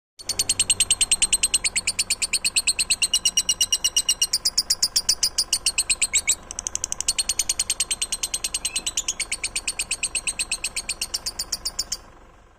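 A songbird singing a long, rapid trill of evenly repeated high notes, about ten a second, breaking briefly about six seconds in and then going on in a slightly different pattern before stopping abruptly.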